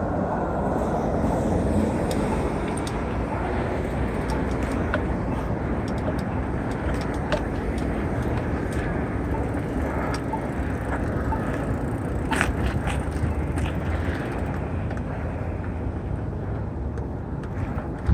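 Wind noise and tyre rumble from a mountain bike being ridden, with scattered small clicks and rattles from the bike.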